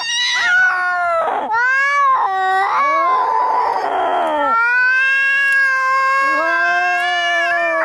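Angry cats yowling in long, wavering, drawn-out cries, the caterwauling of a cat fight, with a harsh hiss-growl about three seconds in.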